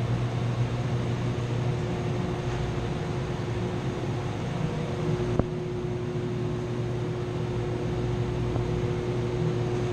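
Chilled-water pump and chiller plant machinery running with a steady hum and a constant tone, with a single sharp click about five and a half seconds in.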